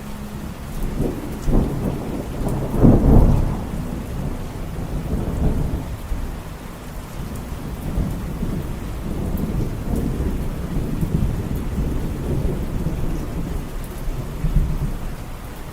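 Thunder rumbling over steady rain, loudest about three seconds in and rolling on in lower swells to the end.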